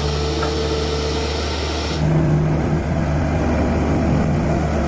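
A vehicle engine running steadily with a low hum, its sound changing abruptly about two seconds in.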